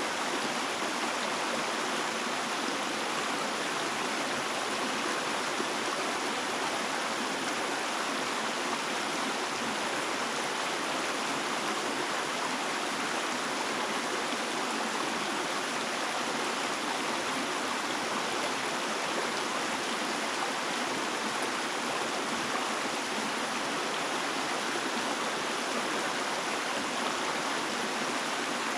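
Running water of a stream, a steady rushing that does not change.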